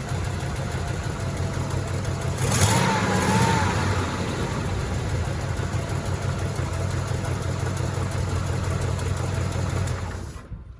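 1971 Oldsmobile Cutlass S engine idling steadily after a fresh start, with a brief rev about two and a half seconds in. The sound cuts off shortly before the end.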